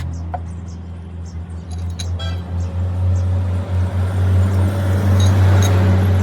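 A motor running steadily with a low, even hum that grows louder about halfway through, with a few light clicks over it.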